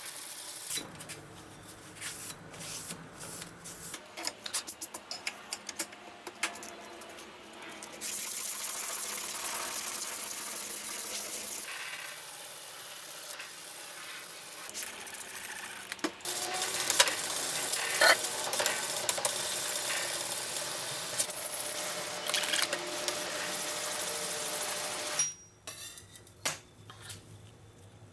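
Hand work on the metal parts of an antique tobacco cutter: irregular clicks and scraping, broken by two long stretches of steady hissing with sharp clicks over them.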